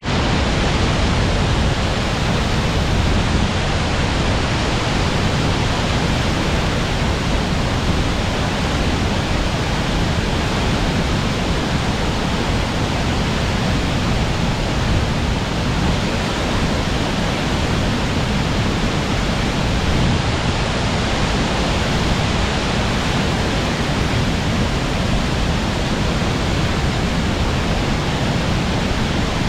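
Water pouring over a river weir (check dam): a steady, loud rush of falling water with a strong low rumble, unbroken throughout.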